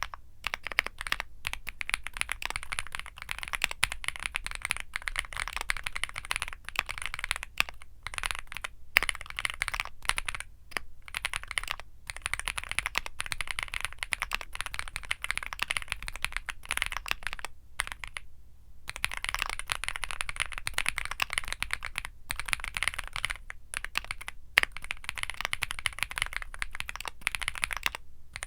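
Fast, continuous typing on a Womier SK75 mechanical keyboard with Womier Mint Blizzard switches: a dense stream of key clicks, broken by several short pauses, one of just over a second about two-thirds of the way through.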